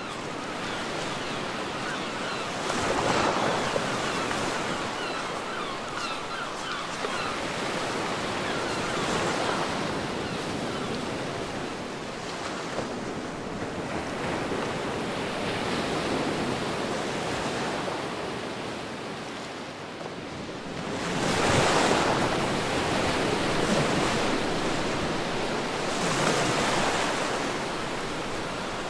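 Sea waves breaking and washing up a beach, a steady rush that swells into louder surges a few seconds in, around 21 seconds in and again near the end.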